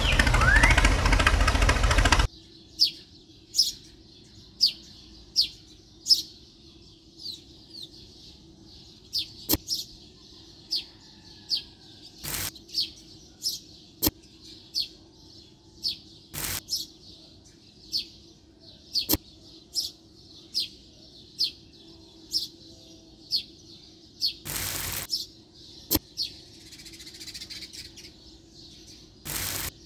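A small bird chirping over and over, short high descending notes a little more than once a second. A loud motor-like noise with a rising whine fills the first two seconds and cuts off suddenly, and occasional sharp clicks and a brief scrape of a small spoon digging in sand and cement powder come through.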